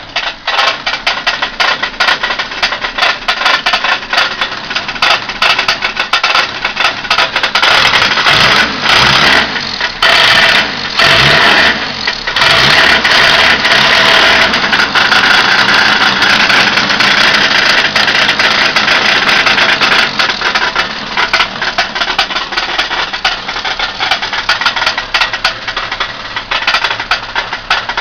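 Ford Capri's 2.0 Pinto single-overhead-cam four-cylinder engine running with a rapid knocking rattle, revved up and down a few times near the middle. The owner suspects either a bottom-end failure in the newly fitted engine or something knocking elsewhere.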